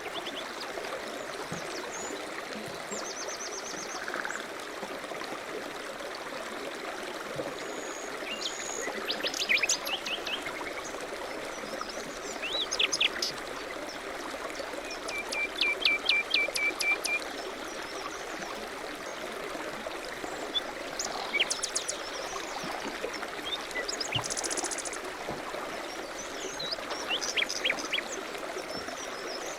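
Steady rush of running water, with songbirds singing short chirping and trilling phrases every few seconds.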